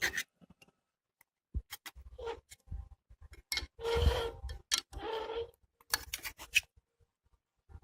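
A cooking utensil clicking and scraping against a frying pan as pieces of fried chicken are turned over, with two longer scrapes in the middle.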